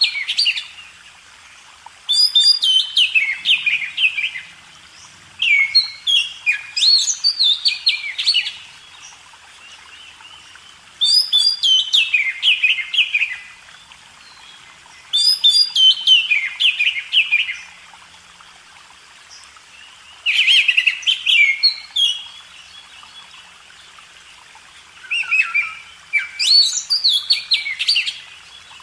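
A songbird singing in separate phrases, six of them, each a quick run of notes falling in pitch, with pauses of about two seconds between them.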